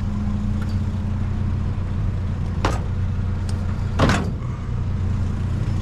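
Truck engine running with a steady low hum. Two sharp knocks come through it, about two and a half seconds in and again about four seconds in; the second is louder.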